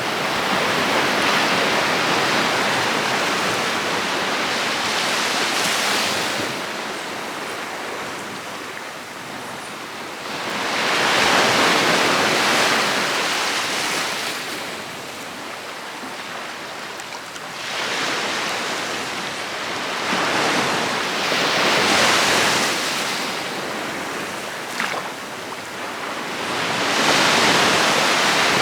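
Sea surf breaking on a beach, the noise swelling and falling back as each wave comes in every five or six seconds.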